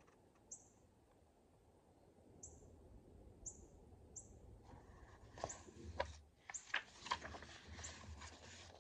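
Faint short, high bird chirps, one every second or so, with paper rustling from the second half on as the pages of a picture book are turned.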